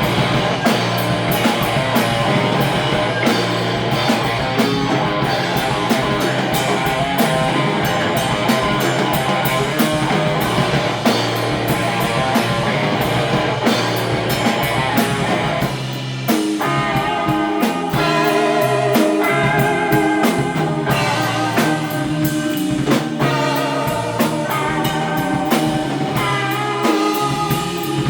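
Live surf-punk band playing an instrumental passage on electric guitars, bass and drum kit. About sixteen seconds in, the dense wall of guitar thins out and a riff of separate repeated notes carries on over the drums.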